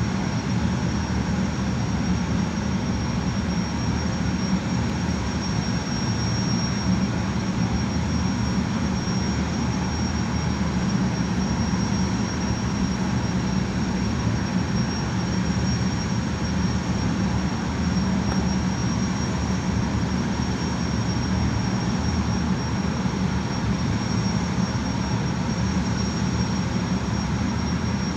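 Gas turbines of a Tokai Kisen jetfoil running steadily: a high, even whine over a low hum.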